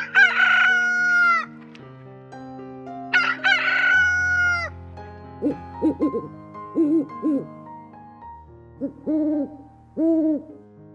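Rooster crowing twice, each crow about a second and a half long, over soft background music with held notes. A run of shorter, lower-pitched animal calls follows in the second half.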